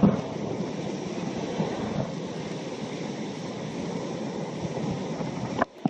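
Spring-tide seawater surging and rushing over the shore, a steady heavy rumble of water.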